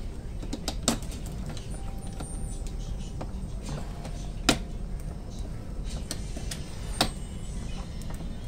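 Steady low rumble of a Fuxing high-speed train's cabin while running, with three sharp plastic clicks as a charger plug is pushed into and worked in the seat's power socket.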